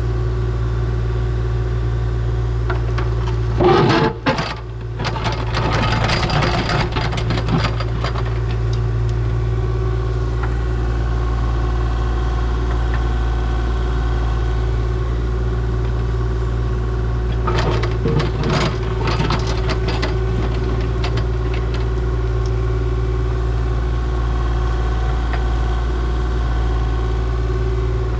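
Diesel engine of a compact excavator running steadily. It is joined twice by bursts of clatter and scraping, about four seconds in and again past the middle, as the machine starts digging.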